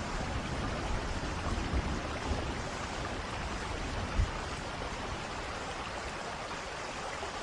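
Steady rushing water noise with a low rumble beneath it, and one soft thump about four seconds in.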